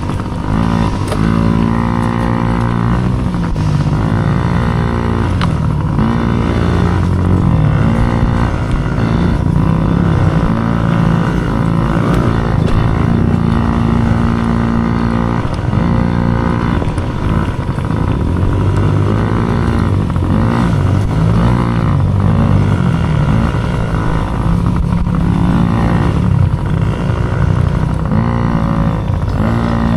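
Mini dirt bike engine being ridden hard, its pitch climbing and dropping over and over as the throttle opens and closes and it shifts gears.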